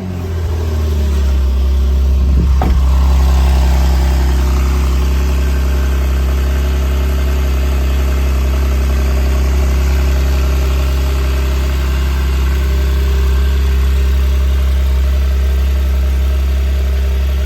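2017 Porsche 911 Carrera's 3.0-litre twin-turbo flat-six, just started from cold, settling over the first few seconds into a steady idle. It runs through the standard exhaust, with the sports exhaust switched off.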